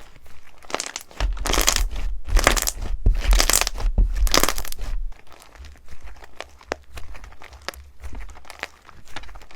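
Slime being squished and pressed by hand: four broad squishes about a second apart, then small scattered crackles and pops as it is worked more lightly.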